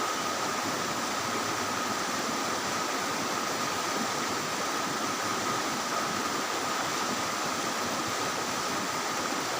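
Small waterfall running: a steady, even rush of falling water, with a thin steady high tone above it.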